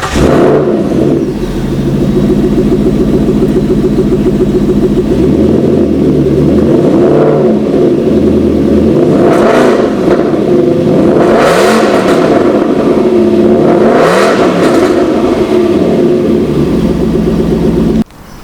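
Aston Martin Vantage GT8's 4.7-litre naturally aspirated V8 firing up with a loud flare and settling into a fast idle. It is blipped several times, each rev rising and falling, and is switched off abruptly near the end.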